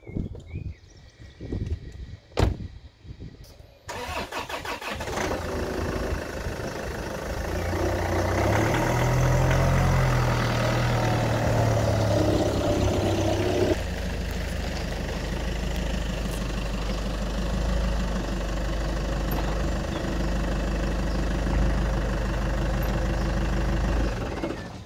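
Land Rover Freelander 2 engine started about four seconds in, after a few clicks and a door shutting. The engine runs with its note rising and falling while the car is driven slowly to turn it around, then idles steadily and cuts off just before the end.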